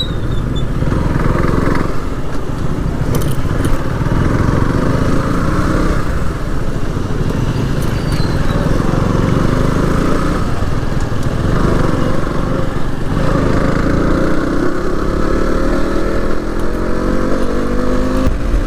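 KTM Duke 125's single-cylinder engine running under way, with a steady rumble and road and wind noise. Near the end the revs climb steadily, then drop back.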